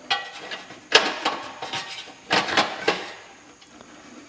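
Metal clinks and clatter of small screws and furnace burner parts being handled and fitted, a handful of sharp knocks with short ringing, dying down near the end.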